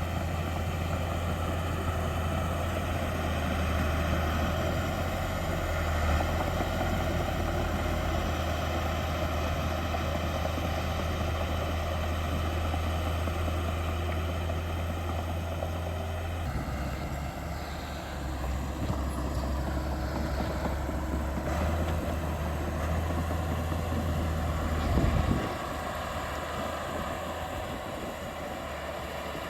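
Heavy diesel machinery running steadily. The engine note changes about halfway through, and there is a brief louder swell near the end.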